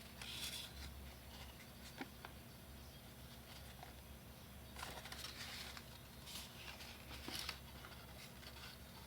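Faint paper handling while crafting: a few brief rustles of construction paper, a cluster of them near the end, and one small tap about two seconds in, over a low hum.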